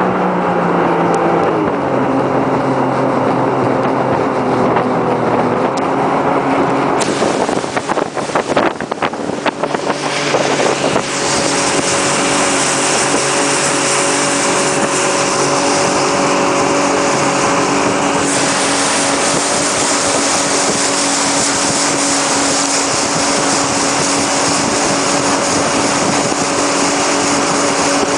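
Motorboat engine running under way, its pitch dropping about a second in and climbing again around six seconds, with a steady rush of wind and water. From about seven to eleven seconds in there is irregular buffeting and splashing, then a stronger, even hiss of wind and spray over the engine.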